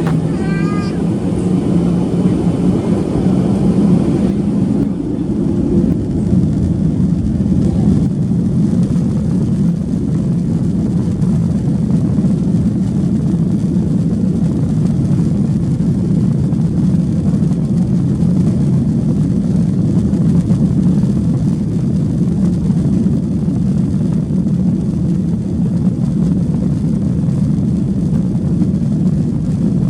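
Steady low rumble of a Boeing 737-800's CFM56 jet engines and airflow, heard from inside the cabin. A brief run of short rising tones sounds about a second in.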